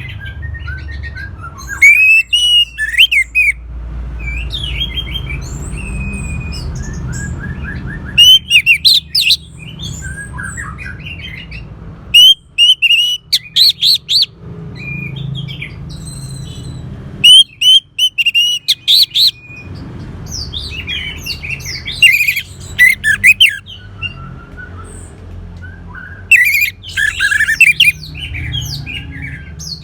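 Orange-headed thrush singing in loud bursts of rapid, varied, whistled and chattering notes, a phrase every three to five seconds, over a steady low hum.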